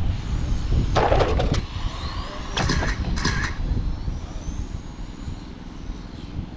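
Electric 1/10 scale RC touring cars with 25.5T motors racing, their motors whining in rising glides as they accelerate. The whine sits over a low steady rumble, with two short harsher bursts about a second in and near three seconds.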